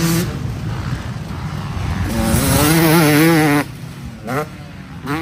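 Dirt bike engine revving hard on a dirt track, its pitch wavering under load. About three and a half seconds in the throttle is shut suddenly, then blipped twice in short rising revs.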